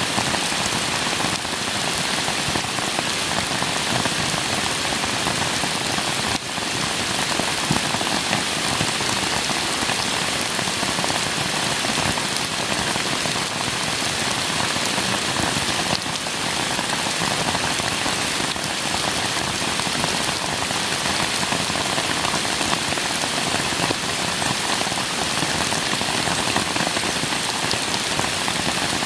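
Steady rain falling and pattering on surfaces, a dense even hiss of many drops with occasional distinct drop hits.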